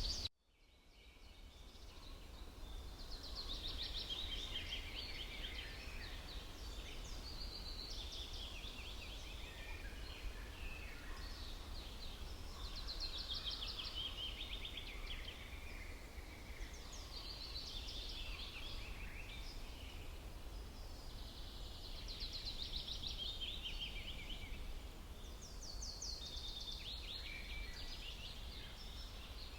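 Spring forest birdsong: songbirds repeat short, trilled phrases every few seconds, each falling in pitch, over a steady low rumble. Just after the start the sound drops out and fades back in.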